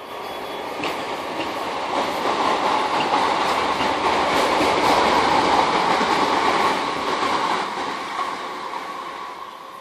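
Passenger train passing on the track below: the noise of its wheels on the rails builds to its loudest about halfway through, then fades toward the end.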